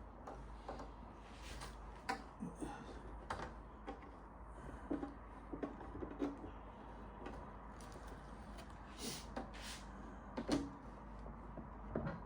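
Scattered light knocks, clicks and brief scuffs of a small metal model steam engine being handled and polished by hand, over a steady low hum.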